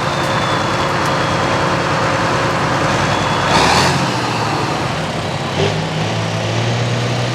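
Super Farm pulling tractor's turbocharged diesel engine running loud and steady, with a brief rush of noise about three and a half seconds in and a click near the end, after which the engine note steps up a little.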